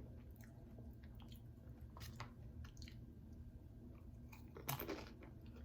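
A person chewing food, faint, with scattered small mouth clicks and a louder click nearly five seconds in.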